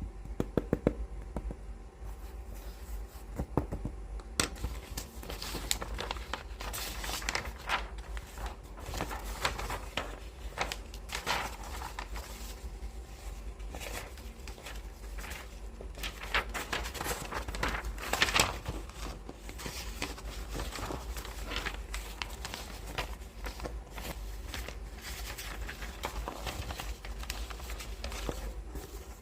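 Hands handling books up close: a few quick taps near the start, then continuous irregular rustling and scratching of paper pages and covers being rubbed and flipped.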